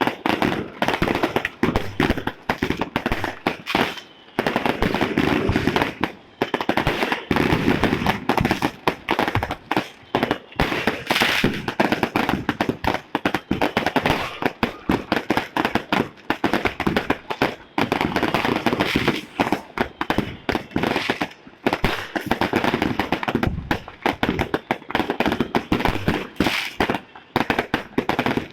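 Fireworks and firecrackers going off in a dense, unbroken barrage of bangs and crackles, many overlapping every second.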